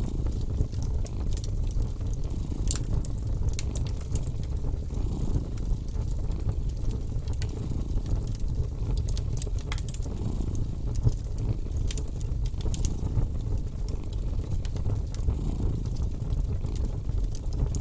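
Wood fire crackling in a fireplace, irregular sharp pops and snaps, over a cat's steady low purr.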